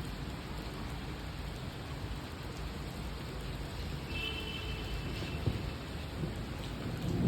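Steady rain falling, with low rumbling underneath.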